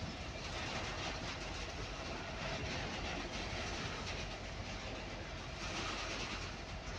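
Container freight train's loaded flat wagons rolling past at speed: a steady noise of steel wheels on the rails, with faint clatter as the wheels pass over the track.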